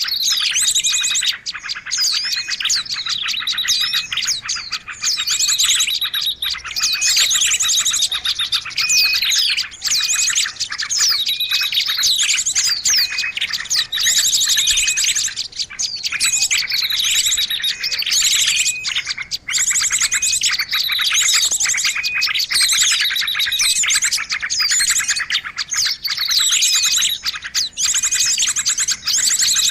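Bird-lure recording of a dense, agitated chorus of small birds chirping and trilling without pause. Rapid falling chirps recur every couple of seconds.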